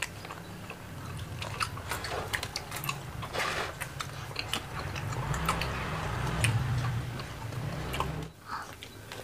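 Close-miked chewing of rice and roasted chicken, with many soft mouth clicks and smacks scattered throughout, over a low hum that drops away near the end.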